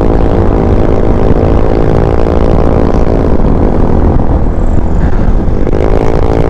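KTM 390 Adventure's single-cylinder engine running under way. Its pitch eases down about two seconds in and climbs again near the end as the throttle is opened.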